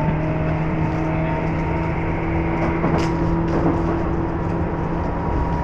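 Train in motion, heard from inside the carriage: a steady running rumble with a constant hum in a few fixed tones.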